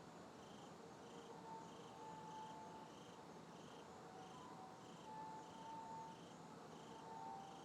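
Faint night ambience: an insect chirping in an even rhythm, about three chirps every two seconds, over a low hiss, with faint, thin tones that come and go and drift slightly in pitch.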